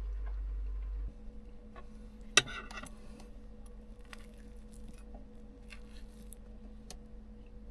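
A steady low hum cuts off about a second in. About two and a half seconds in comes one sharp, ringing clink like a utensil or dish knocking on glass or metal, followed by light scattered clicks and taps of kitchen handling.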